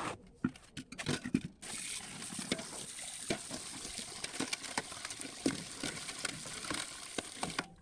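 A few knocks, then water running steadily, as from a tap, with small clicks and clatter over it; it cuts off abruptly near the end.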